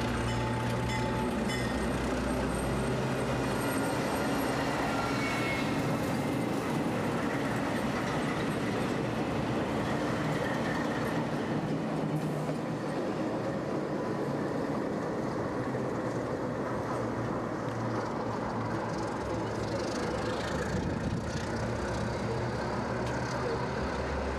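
Rolling rumble of a train on rails, with the drone of a White Pass & Yukon diesel locomotive passing close by on the next track.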